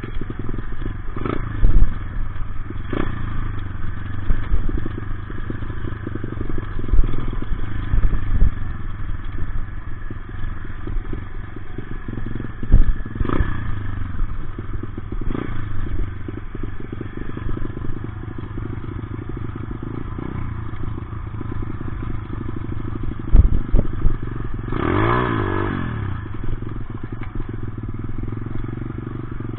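Dirt bike engine running while being ridden, with scattered sharp knocks and rattles. About 25 seconds in, the engine revs up and back down.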